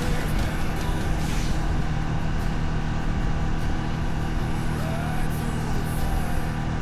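125 cc custom motorcycle engine running steadily through city streets.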